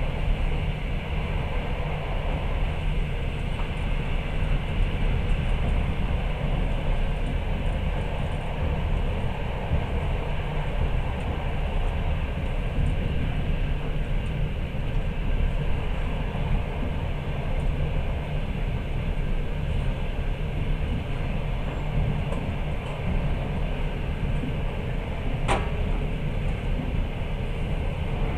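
Passenger train running, heard from inside the carriage: a steady low rumble of wheels on rail, with one sharp click near the end.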